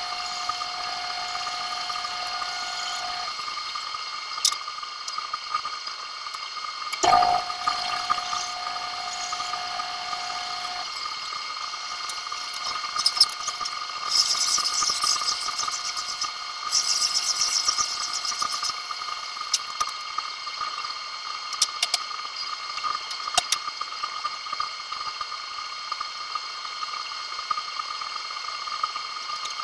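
Workshop tool sounds: a steady machine hum with several constant tones, scattered sharp clicks and a louder knock about a quarter of the way in, and two short bursts of high hiss near the middle.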